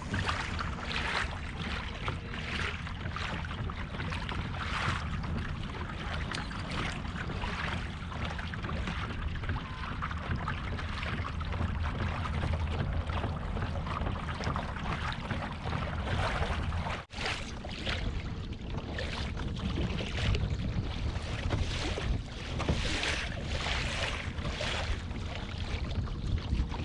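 Low wind rumble on the microphone, with water splashing and lapping around a kayak. The sound drops out for an instant about two-thirds of the way through.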